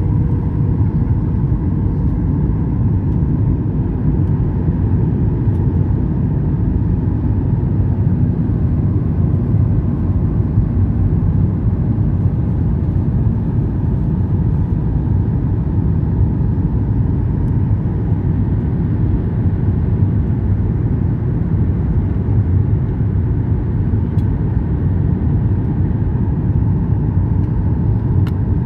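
Steady loud rumble of an airliner cabin in flight, the engines and airflow making a deep, even roar with a faint steady hum above it.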